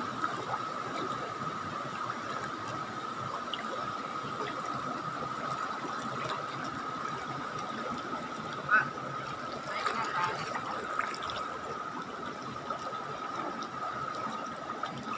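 River water flowing and trickling steadily, with a thin steady high-pitched hum running through it and a brief louder blip about nine seconds in.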